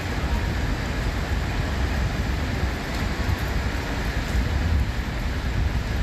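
Typhoon wind and rain making a steady rushing noise, with a fluttering low rumble of wind buffeting the microphone.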